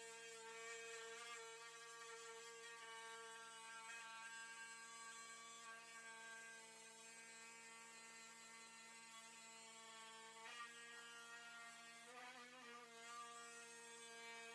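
Near silence, with a faint steady electrical hum that shifts pitch slightly about ten seconds in.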